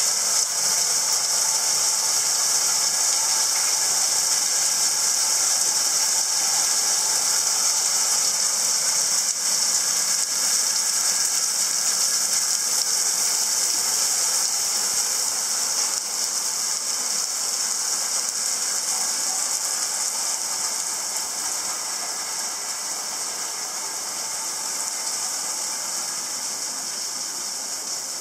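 Heavy storm rain falling, a steady hiss that eases off a little in the last third.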